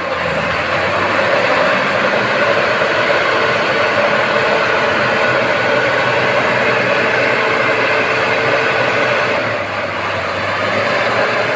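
Heavy truck engine running steadily and loud, with a faint high whine over it that stops about nine seconds in, where the engine note eases slightly.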